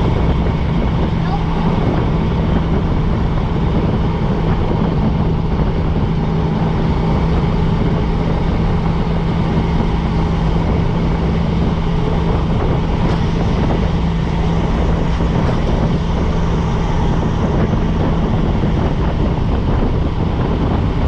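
Vehicle with a freshly swapped engine being driven at a steady pace: engine running evenly at constant pitch under road and wind noise.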